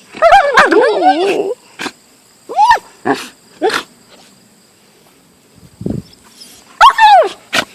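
Siberian husky vocalizing: a long wavering, whining call, then three short rising-and-falling yelps, and another wavering call about seven seconds in.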